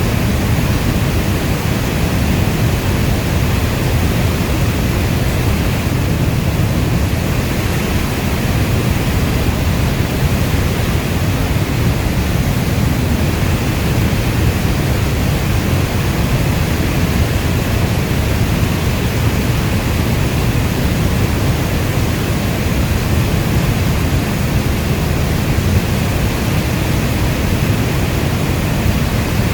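Steady heavy rainfall: a dense, even hiss with its weight in a deep low rumble, unchanging throughout.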